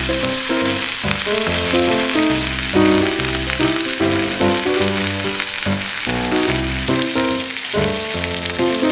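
Food sizzling as it fries, a steady hiss, over background music with a plucked-sounding melody.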